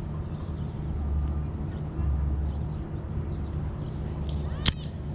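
Outdoor background: a low, steady rumble that swells now and then, with faint high chirps and a single sharp click about four and a half seconds in.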